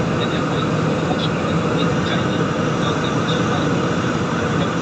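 Steady engine and airflow noise inside a jet airliner's passenger cabin in flight: an even, unbroken rumble and hiss.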